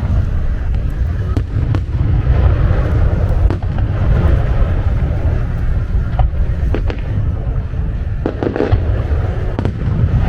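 Fireworks display: a continuous low rumble of booming shells with sharp cracks and pops scattered through it, several coming close together near the end.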